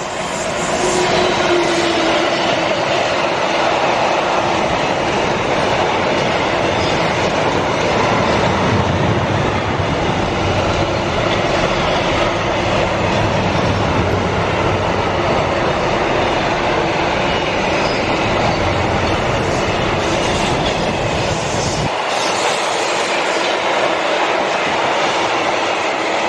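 A train passing close by, with a loud steady rush of wheels on rails. The deepest rumble drops away about 22 seconds in as the train moves off.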